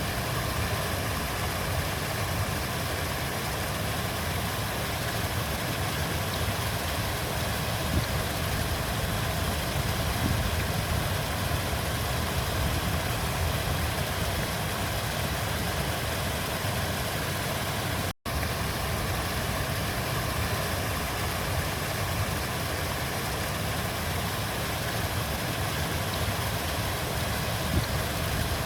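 River water flowing, a steady rushing noise with a deep rumble underneath. It drops out for an instant about two-thirds of the way through.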